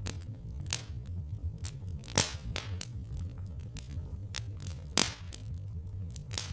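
Wood fire crackling, with irregular small snaps and a few louder sharp pops, over a low steady rumble.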